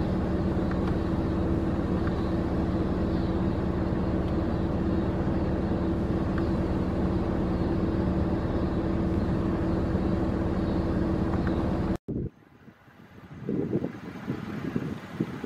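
Steady low hum of an idling vehicle engine, with a constant two-tone drone. It cuts off abruptly about twelve seconds in and gives way to quieter, uneven wind buffeting on the microphone.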